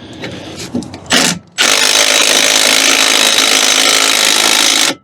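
Power tool driving out a rusted brake caliper bolt: a short burst, then a steady run of about three seconds that cuts off sharply near the end. The bolt is rusted in and sticking on its thread.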